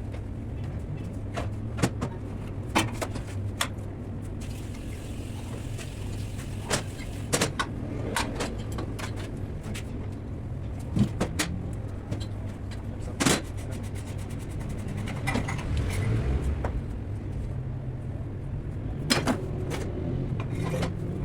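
Scattered sharp knocks and clicks of tools at work on a car's suspension during a shock absorber replacement, over a steady low hum.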